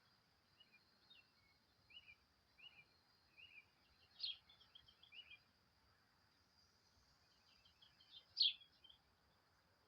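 Small songbird chirping: a run of short, evenly spaced chirps, then two louder sharp calls about four seconds and eight and a half seconds in. A steady high insect drone runs underneath.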